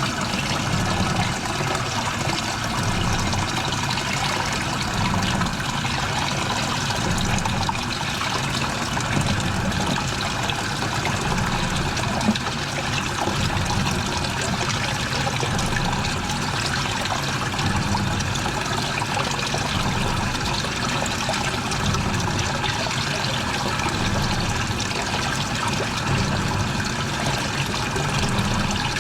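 Washing machine mid-cycle, water sloshing and churning in the drum, with a low swell every second or two.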